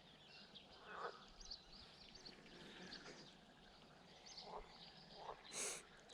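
Faint outdoor ambience with scattered, distant bird chirps and calls, and one brief louder sound a little before the end.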